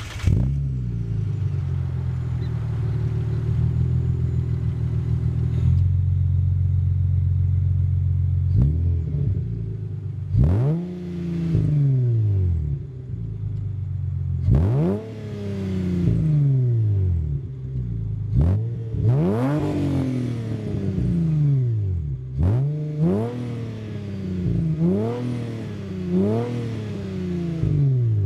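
2003 Hyundai Tiburon GT's 2.7-litre V6 with a custom intake, header and exhaust catching as it starts, then running at a fast idle that drops to a lower idle about six seconds in. From about nine seconds on it is blipped repeatedly, each rev rising sharply and falling back to idle, the blips coming closer together near the end.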